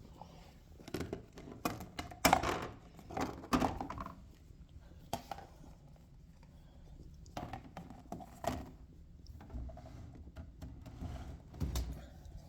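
Irregular knocks and clatter of household items being handled and put away, with a cluster of louder knocks about two to four seconds in and more around eight seconds and just before the end.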